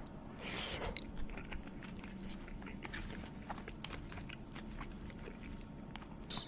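A person chewing and biting food close to the microphone: soft mouth sounds with scattered small clicks.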